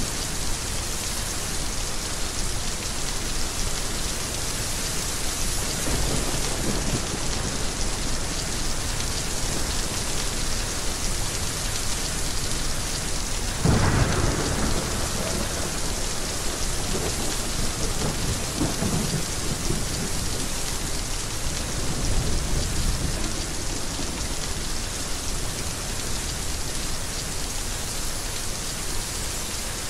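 Heavy rain falling steadily with thunder rolling several times; the loudest clap comes about halfway through, followed by lower rumbles.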